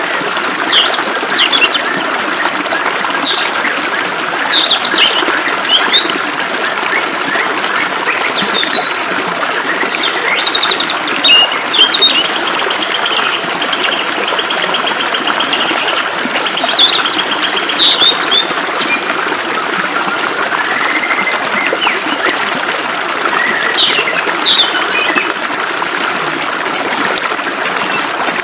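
Several birds chirping and whistling over the steady hiss of flowing water, with a rapid trill of repeated notes a little under halfway through.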